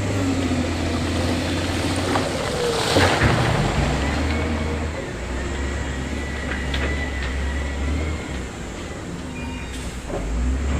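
Heavy construction machinery's diesel engine running with a deep steady hum, its pitch shifting lower about four seconds in. There is a louder rushing, scraping surge about three seconds in.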